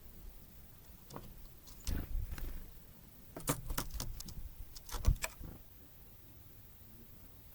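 Tits at a feeder: a few short bouts of tapping and clattering as birds land and peck, with one louder knock about five seconds in.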